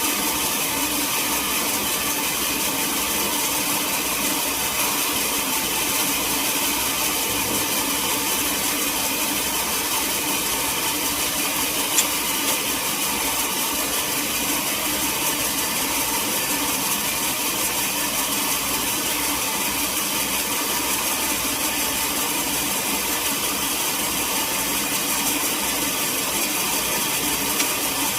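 Sawmill machinery running steadily while milling teak, with one sharp click about twelve seconds in.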